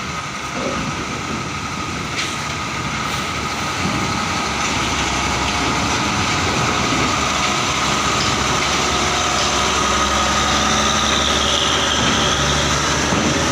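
Heavy diesel truck engine running, growing louder over the first few seconds and then holding steady, as a truck rolls off the ferry.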